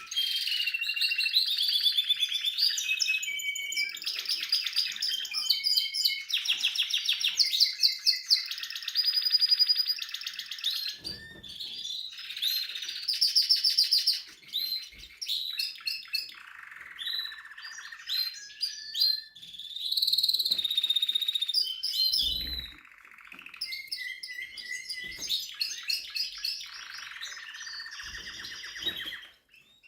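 Spanish Timbrado canary singing a long song of rapid trills, the phrases changing every second or two with a few brief pauses.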